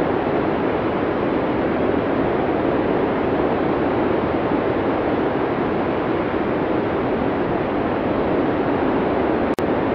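Arctic blizzard sound effect: a steady, dense rush of storm wind with no gusting changes, cut by a momentary dropout near the end.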